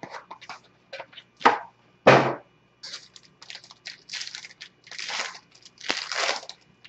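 Trading-card box packaging being torn open and handled: a run of irregular crackling, tearing and rustling sounds, with two sharper cracks about a second and a half and two seconds in.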